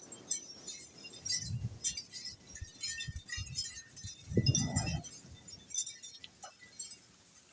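Rainstorm sounds: scattered light, high-pitched ticks and clinks of drips, with a few soft low thumps and a brief louder low rumble about four and a half seconds in.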